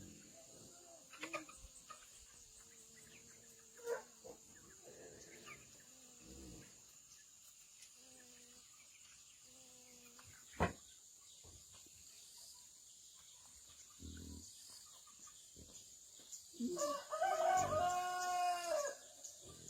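A rooster crows once near the end, a loud call of about two seconds. Before it come quieter, short chicken calls and two sharp knocks.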